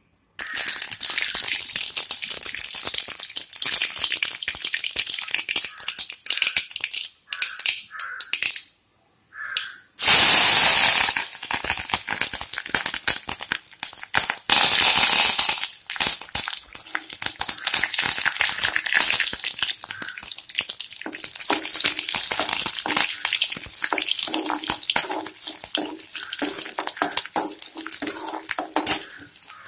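Curry leaves and garlic frying in hot oil in a metal kadai, crackling and sizzling as they are stirred with a spatula. The sizzling starts suddenly just after the start and swells into two louder surges about ten and fifteen seconds in.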